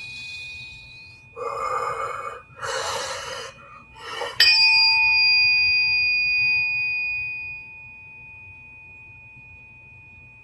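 A struck metal bell-like instrument rings, fading out over several seconds. Its clear high tones are left over from an earlier strike at first. Two breathy whooshes come between about one and a half and three and a half seconds in, then a fresh sharp strike about four seconds in sets it ringing again.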